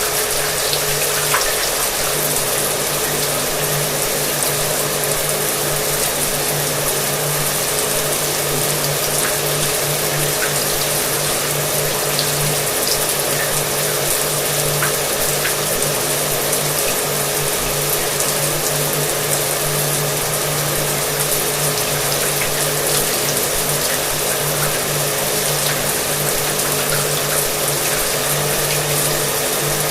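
Shower water running steadily, with a hair dryer's motor humming and blowing underneath as a steady low tone.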